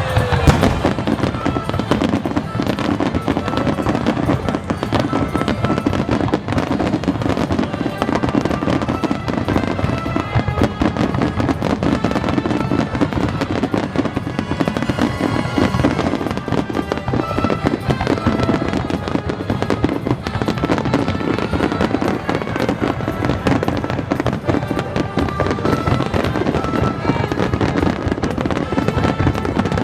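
Fireworks display: a dense, continuous barrage of shell bursts and crackling, with music playing underneath.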